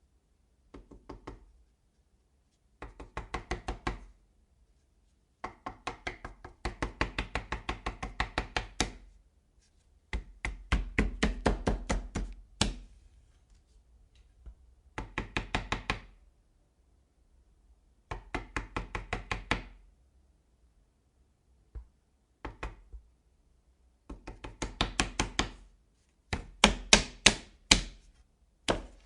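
Knocking on a door in repeated runs of quick knocks, several a second, separated by short silent pauses; the runs vary in length, and one near the middle is a single knock.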